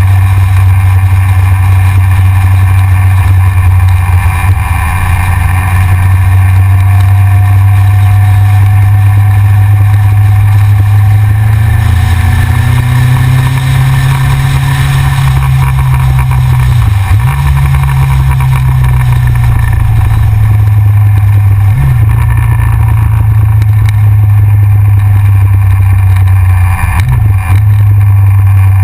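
Yamaha XJR's air-cooled inline-four engine running loud while riding. The engine note climbs about halfway through and then dips briefly three times.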